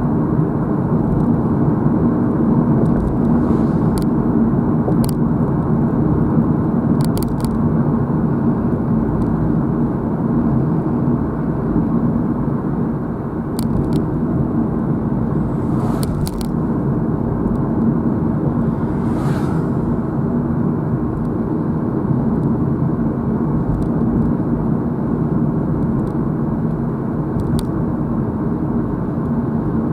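Steady driving noise of a car on the road, heard from inside the car: engine and tyre rumble with a low steady hum, and a few faint clicks now and then.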